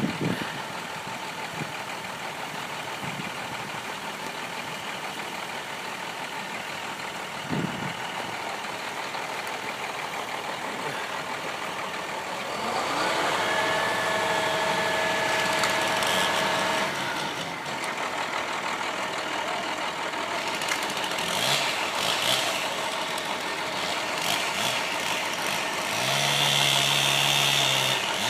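Engines of tree-clearing equipment running steadily. About halfway through, a steady higher-pitched machine tone rises over them for about four seconds, and a deeper droning engine note joins near the end.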